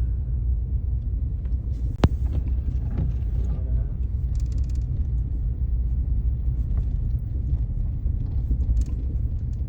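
Steady low rumble of a car in motion, heard from inside the cabin, with one sharp click about two seconds in.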